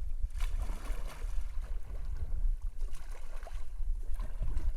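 Water lapping and splashing around a kayak, with short irregular splashes over a steady low rumble.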